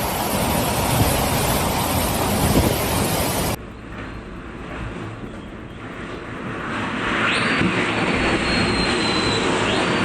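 Storm wind blowing hard across the microphone in a steady, heavy rush. About three and a half seconds in it cuts to a quieter gust, which builds up loud again toward the end.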